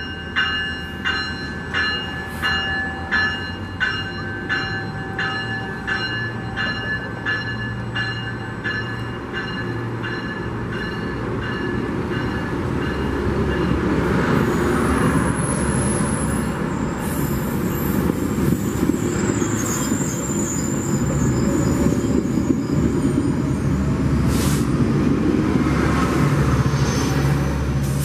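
A bell rings in a steady rhythm about twice a second and fades away over the first ten seconds as train 626 pulls out. From about twelve seconds in, the rumble of train wheels and engine grows louder and holds steady.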